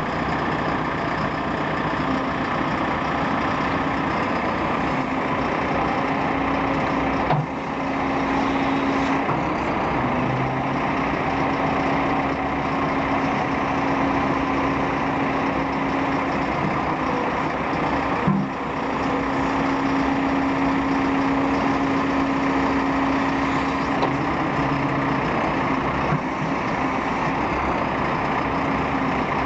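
JCB 3CX backhoe loader's diesel engine running steadily, its note shifting briefly now and then, with two sharp clunks, one about seven seconds in and another about eighteen seconds in.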